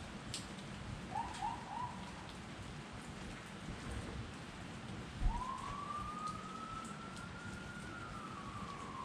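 Steady rain falling, with scattered drips. About a second in, a siren gives three short chirps. Just after a low thump about five seconds in, it winds up into one long wail that holds, then slowly falls away near the end.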